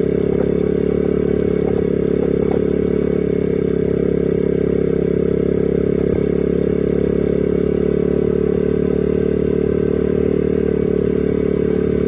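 An engine running hard at a steady speed, holding one even pitch throughout.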